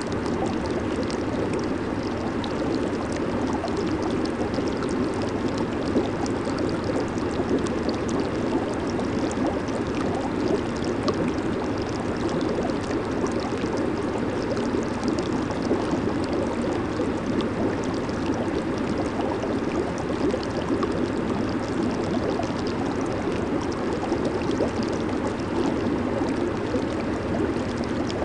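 Jacuzzi water churning and bubbling steadily, a constant rushing gurgle flecked with tiny bubble pops.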